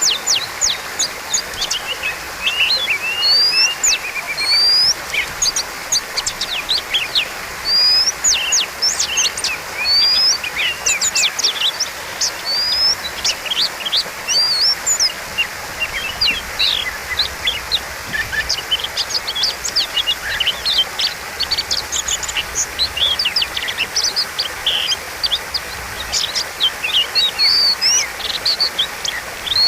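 Oriental magpie-robin (kacer) singing without pause: a fast, varied string of rising whistles, slurred notes and sharp chips, full of mimicked phrases, over a steady hiss.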